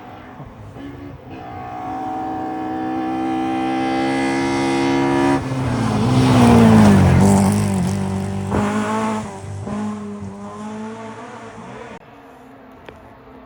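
Rally car approaching at high revs on a stage, its engine note holding steady and growing louder. About five seconds in the pitch drops sharply as it lifts and passes amid a rush of noise, then it pulls away on a fresh engine note and fades out near the end.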